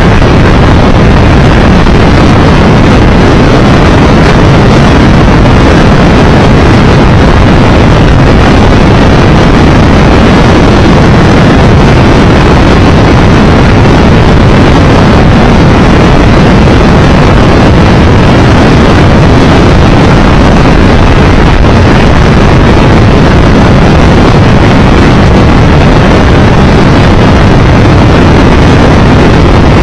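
Loud, steady wind rush on a motorcycle-mounted microphone at road speed, over the running of a Triumph Tiger Explorer 1200's three-cylinder engine.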